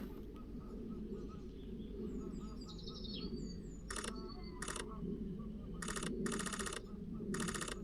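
Sony A1 camera shutter firing in rapid bursts: two short bursts about four seconds in, a longer one lasting about a second, and another near the end. Under it are high, short falling chirps from birds and a low, steady rumble of background noise.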